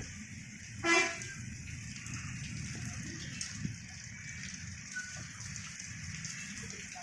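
A vehicle horn toots once, briefly, about a second in, over a steady low rushing background noise.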